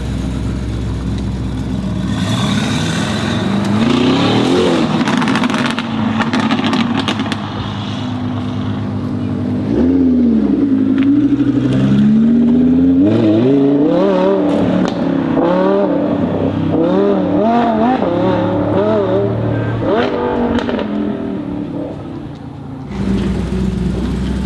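Mansory Venatus Lamborghini Urus's twin-turbo V8 revving hard through a sports exhaust, its pitch rising and falling many times, with a run of sharp exhaust crackles a few seconds in.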